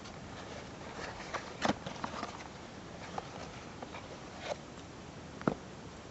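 Package being handled and opened: scattered rustling, scraping and short clicks over a steady background hiss, with two sharper clicks, one a couple of seconds in and one near the end.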